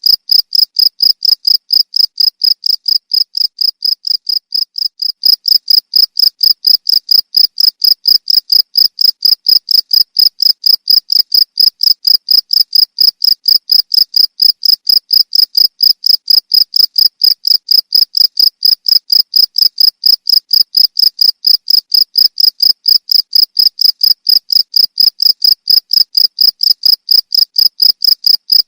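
A cricket chirping: a continuous train of even, rapid pulses on one high pitch.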